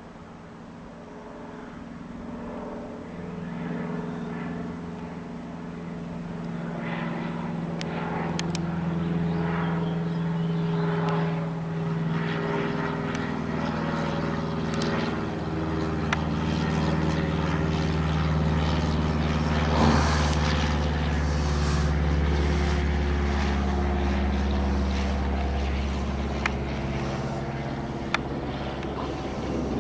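Cessna 152 light aircraft flying over, the drone of its four-cylinder Lycoming engine and two-bladed propeller growing louder over the first several seconds, loudest about twenty seconds in, then easing slightly as it passes.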